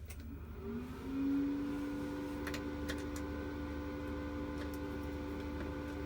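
A small electric motor switched on, whirring up in pitch about a second in and then running at a steady speed, over a low steady hum, with a few light clicks in the middle.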